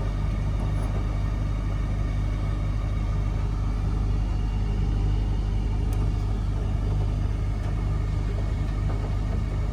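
Miele W1 front-loading washing machine running with a steady low rumble and hum.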